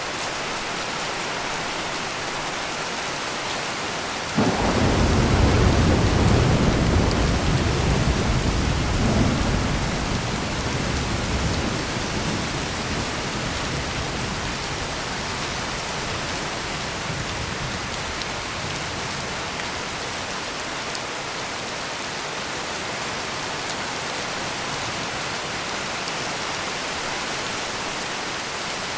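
Heavy steady rain, with a clap of thunder breaking in suddenly a few seconds in and rolling away over several seconds as a deep rumble.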